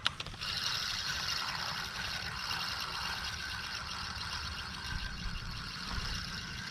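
A click, then a spinning reel being cranked: a steady mechanical whirring of the reel's gears and rotor as the line is wound in.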